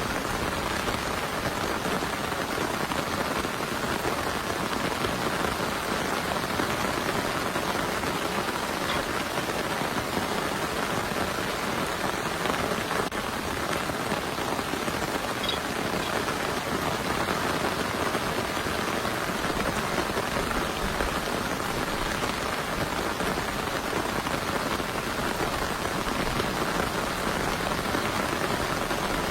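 Heavy rain falling steadily, an even hiss without pause.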